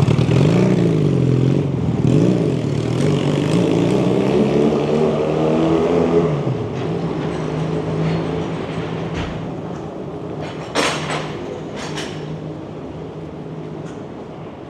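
A motor vehicle's engine passing close by on a city street, its pitch wavering up and down as it revs, then fading away after about six seconds. Two short sharp clatters follow near the end.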